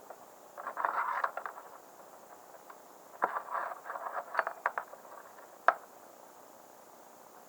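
Short metallic scrapes and clicks in two spells, the last a single sharp click: 12-volt jumper-lead clips being touched and scraped against the terminals of a carburetor fuel solenoid, which is not clicking because it has failed.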